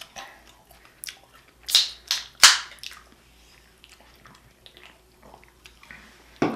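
Close-miked eating and food-handling sounds: several short, sharp crackling bursts clustered from about one to two and a half seconds in, the loudest near two and a half seconds, another near the end, with faint chewing between.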